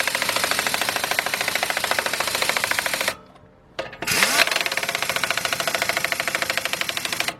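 Craftsman 16882 half-inch-drive air impact wrench hammering rapidly as it runs lug nuts onto a pickup's front wheel, in two long bursts with a short pause a little after three seconds in. The gun struggles with the job, which the owner suspects is down to low air pressure, about 50 psi.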